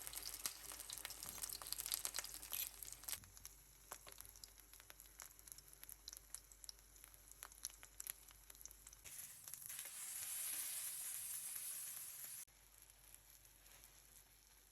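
Food frying in a pan, sizzling with a dense crackle that thins out after about three seconds. It changes abruptly twice, turning to a smoother hiss about nine seconds in and dropping quieter near the end.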